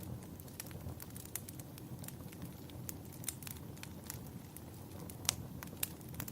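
Wood fire in a fireplace crackling, with irregular sharp pops over a low steady rumble; two louder pops come a little after five seconds in.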